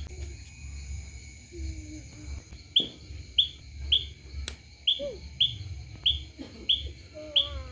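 A bird's short, falling chirps repeated about twice a second, with a gap of about two and a half seconds near the start, over a low rumble.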